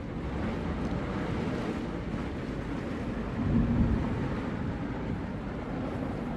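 Heavy rain pouring steadily in a torrential downpour, with a brief louder low rumble about halfway through.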